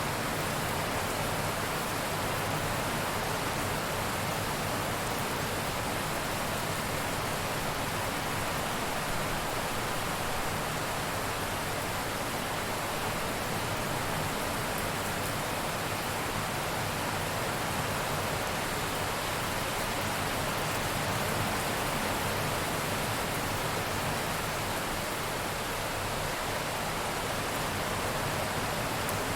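Steady heavy rain, an even hiss with no breaks and no thunder.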